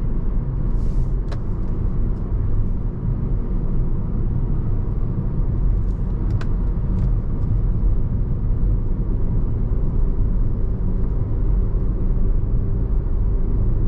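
Car interior road and engine rumble while driving slowly, steady and low, with a few faint clicks.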